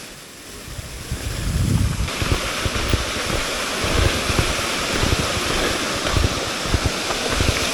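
Waterfall rushing in a steady hiss that turns louder and brighter about two seconds in, with wind buffeting the microphone in low rumbles.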